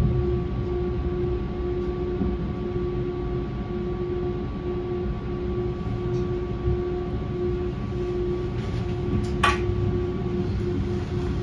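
S-Bahn train running: a steady low rumble with a steady electric hum over it, and a single sharp click about nine and a half seconds in.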